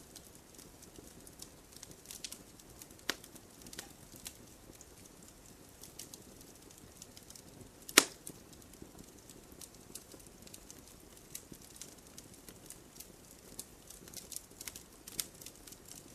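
Wood campfire crackling: scattered sharp snaps over a soft steady background, with one loud pop about halfway through.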